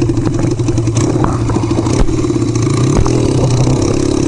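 Motorcycle engine running under way, steady at first, its pitch starting to rise near the end as the bike accelerates.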